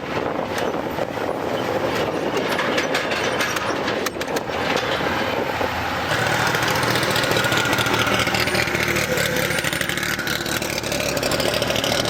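A truck engine running close by, becoming louder and steadier about halfway through.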